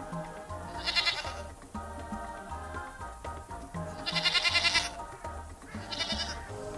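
Goat bleating three times, wavering calls with the middle one the longest, over background music.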